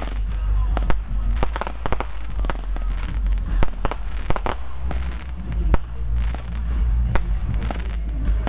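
Consumer fireworks going off in quick, irregular succession: many sharp bangs and pops, with a few louder bangs among them.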